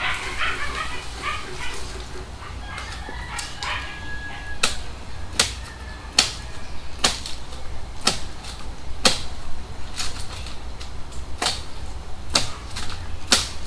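Chickens clucking and a rooster crowing for the first few seconds. Then a steady run of sharp chopping strikes, about one a second: a machete hacking at the coconut tree.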